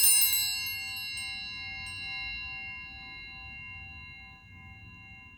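A single struck bell ringing out and slowly dying away, its tone wavering as it fades. It is an altar bell rung at the consecration of the wine in the Eucharist.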